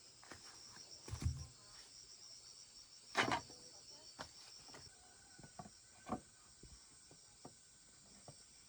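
Insects chirping in a steady, pulsing high trill that stops about halfway through, with a few scattered knocks and thumps, the loudest about three seconds in.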